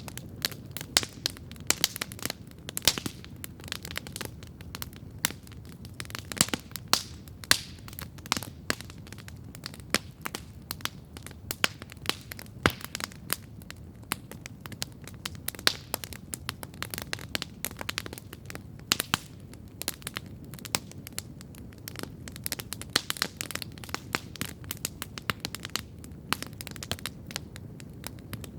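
Wood campfire crackling steadily, with irregular sharp pops and snaps several times a second over a low, even rumble of the flames.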